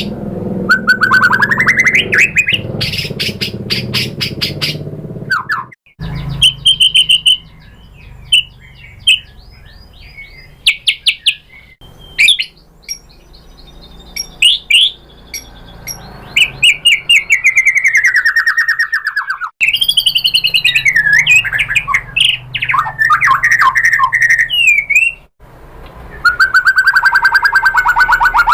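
White-rumped shama (murai batu) singing a varied, loud song. It mixes rapid clicking trills, rising whistles, a long downward-sliding whistle and quick chattering phrases, with abrupt breaks between phrases.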